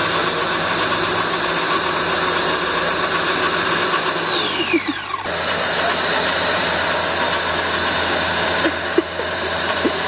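Pressure washer running steadily, its motor humming under the hiss of the water spray, with a short break about five seconds in.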